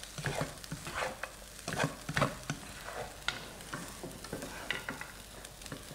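Fried rice being stirred and tossed in a hot pan: a spatula scrapes and knocks irregularly against the pan over a steady low sizzle.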